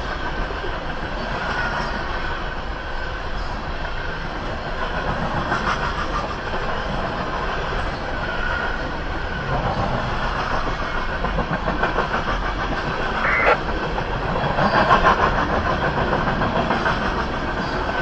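Steady running noise of a vehicle, with a brief sharp sound about three-quarters of the way through.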